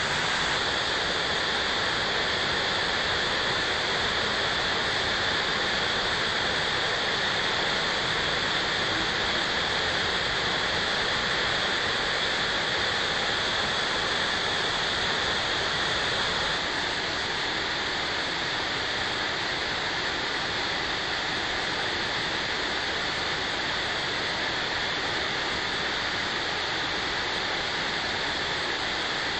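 Steady rushing of a spring-fed waterfall, with groundwater gushing out of a rock face and cascading down. It drops slightly in level a little past halfway.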